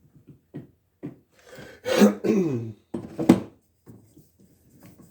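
A man's wordless vocal sound about two seconds in, sliding down in pitch, like a throat-clear, among light clicks and knocks of handling, with one sharp click a little after three seconds.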